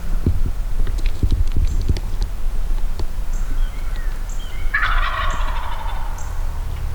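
A wild turkey gobbler gobbles once, about five seconds in, a rattling call lasting about a second and a half. A low rumble runs underneath, with a few soft knocks near the start.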